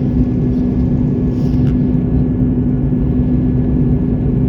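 Airliner cabin noise in flight: a steady, loud engine and air rumble with a constant low hum.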